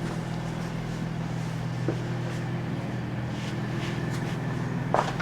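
Steady low mechanical hum, with a light click about two seconds in and a sharper knock near the end.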